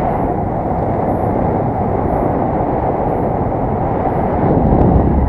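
Strong wind buffeting the microphone in flight: a steady, loud, low rush of air.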